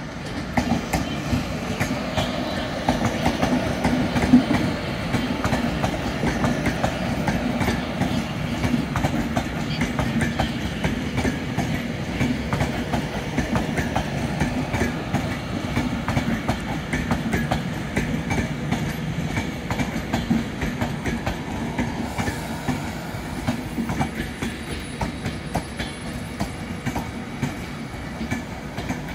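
Avanti West Coast Class 390 Pendolino electric train arriving and rolling past at close range, with a steady rumble and its wheels clicking continuously over the track.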